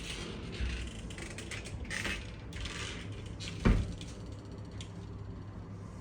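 Scattered faint clicks and knocks over a steady low hum, with one sharper knock a little past halfway.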